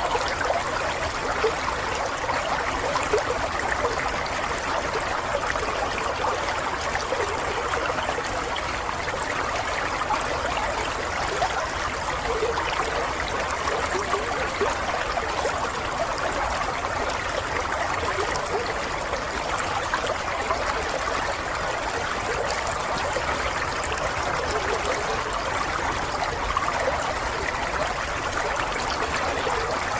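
Water flowing steadily over rocks in a stream, a continuous babble with small gurgles and trickles.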